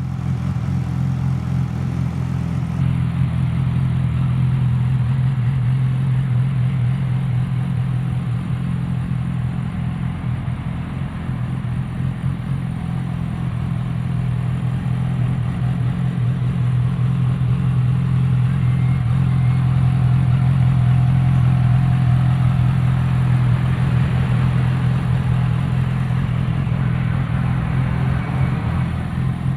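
2011 Yamaha YZF-R6's 599 cc inline-four engine idling steadily.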